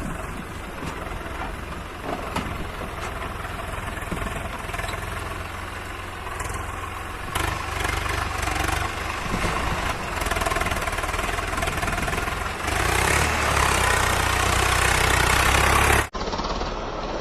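Tractor's diesel engine running under heavy load with a steady low beat. It gets louder from about three-quarters of the way in, then breaks off abruptly near the end and another stretch of engine sound follows.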